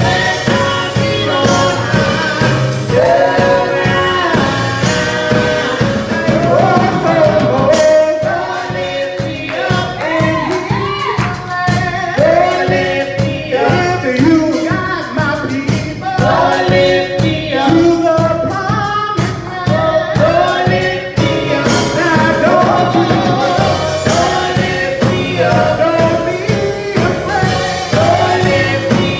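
Church praise team singing a gospel song with band accompaniment and a steady beat.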